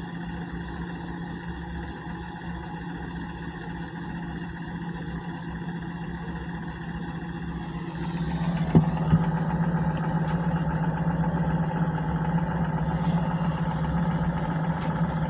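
Mobile home gas furnace running steadily with its burner lit, before the blower fan has come on: the burner is still heating up. It gets louder about halfway through, with a couple of light clicks.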